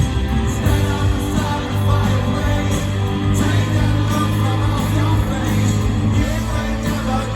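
Rock band playing a song with a sung lead vocal over a steady bass line.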